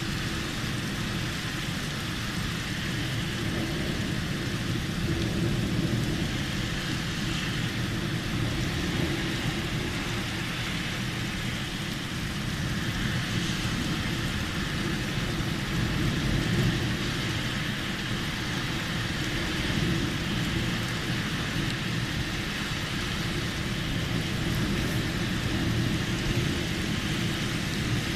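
Steady rain falling in a thunderstorm, an even hiss over a low rumbling that swells slightly now and then.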